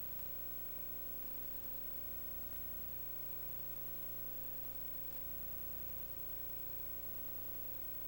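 Steady hiss with a constant electrical hum and a few held tones, unchanging throughout: the recording's background noise, with no other sound.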